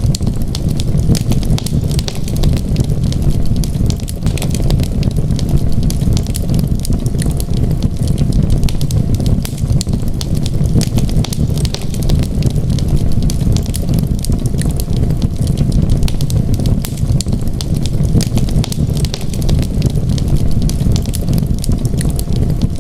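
Wood fire in a fireplace crackling, with many small sharp pops over a steady low rumble.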